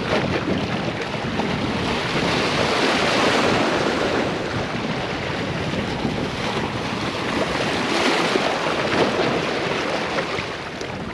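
Wind buffeting the microphone over the wash of small waves breaking on the shore, a steady rushing noise that swells and eases a couple of times.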